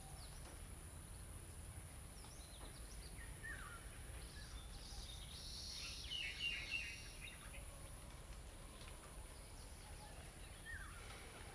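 Birds calling over faint, steady background noise: a few short, separate chirps, with a busier cluster of calls around the middle.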